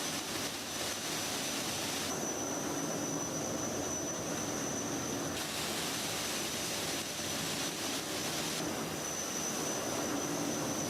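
Industrial automatic carpet washing machine running: a steady mechanical whir with a low hum, and a thin high-pitched whine that cuts in about two seconds in, stops about five seconds in, and returns near the end.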